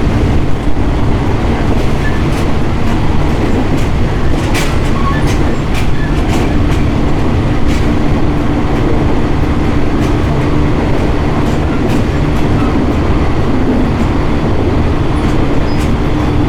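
Interior running noise of a 701 series electric train under way: a steady rumble of wheels on rail with a constant hum and scattered sharp clicks and clacks over the track.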